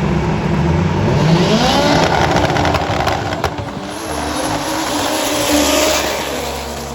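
Drag racing motorcycle launching and accelerating hard down the strip, its engine note climbing steeply, dropping at a gear change and climbing again. The sound fades near the end as the bike draws away.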